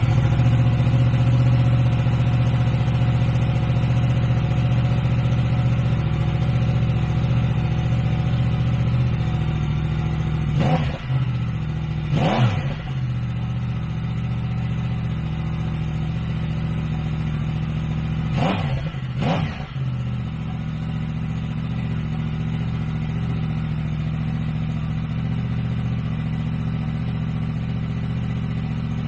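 Yamaha MT-10's crossplane inline-four idling through an SP Tadao slip-on muffler, blipped four times in two quick pairs, each rev rising and dropping straight back to idle.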